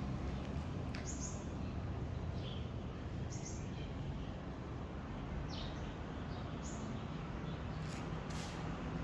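Short high chirps, about four of them spread a second or two apart, each sliding down in pitch, over a steady low background noise, with a couple of sharp clicks near the end.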